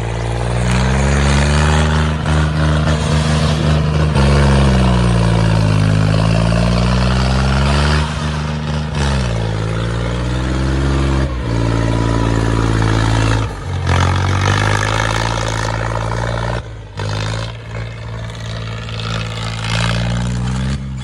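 Tractor engine revving hard, its pitch sagging and climbing back several times, with a couple of brief sudden breaks in the second half.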